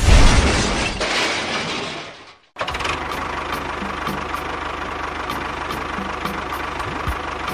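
A loud hiss that fades away, then after a sudden cut a small electric motor runs steadily, with a constant hum and a faint regular ticking.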